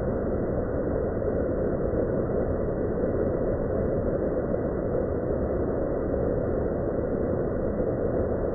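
Waterfall rushing steadily: an even, unbroken noise with no separate events.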